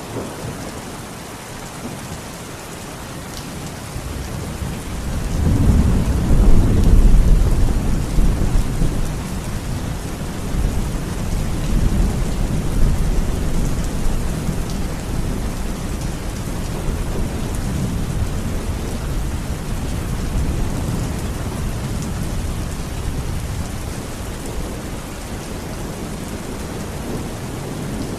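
Steady heavy rain, with a roll of thunder that builds about four seconds in, peaks a few seconds later and rumbles on as it slowly fades.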